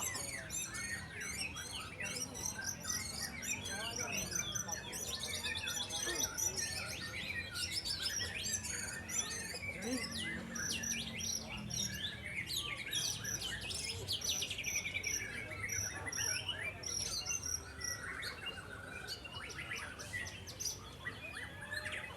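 Several white-rumped shamas (murai batu) singing over one another in contest: a dense mix of loud whistles, rapid trills and chirps, with runs of quickly repeated high notes.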